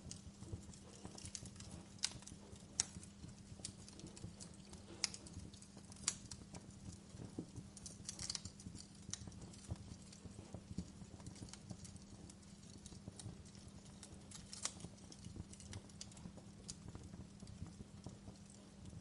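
Wood fire crackling in a fireplace: irregular sharp pops and snaps, a few louder ones around two, three and six seconds in, over a steady low hum.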